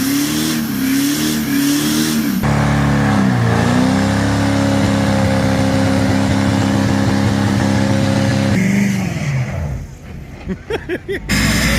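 Truck engine revving up and down several times, then held at high revs with its pitch slowly climbing before it drops away near the end.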